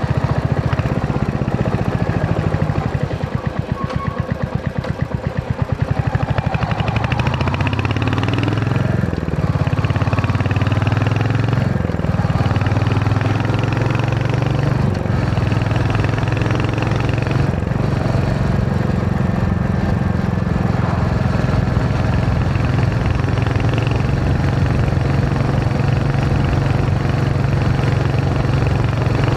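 Royal Enfield Hunter 350's single-cylinder engine running under way. The throttle eases off a few seconds in, so its separate exhaust beats stand out, then it picks up again and runs steadily.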